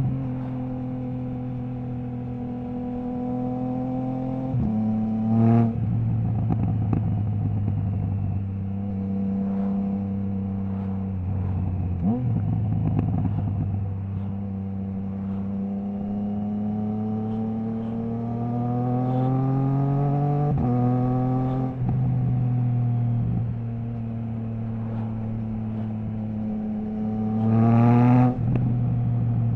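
Triumph Trident 660 inline three-cylinder engine through a Zard stainless full exhaust with the baffle removed, pulling through the gears under load. The pitch climbs slowly and falls abruptly at each quickshifter upshift, several times. The loudest surge comes near the end.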